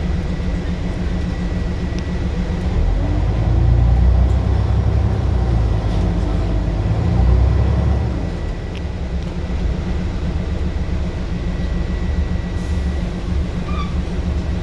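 Scania bus engine running under load, its low rumble swelling for several seconds about a third of the way in, then easing back. A thin steady high whine runs alongside and stops near the end.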